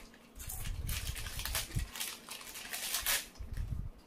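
Potato chips being crunched and chewed close to the microphone, a few sharp crunches among steady chewing, with rustling of the chip packets.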